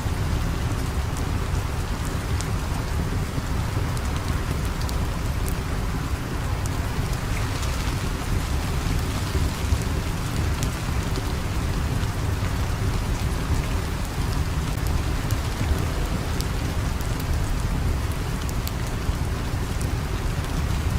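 Steady rain falling, an even hiss over a continuous deep rumble, with scattered faint sharp ticks.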